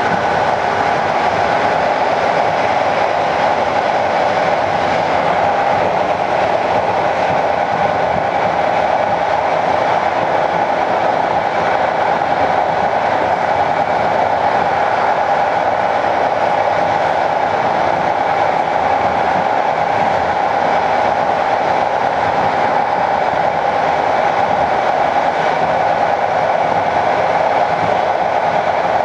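TLK passenger train running along the track, heard from on board: a steady, unbroken noise of wheels on rails.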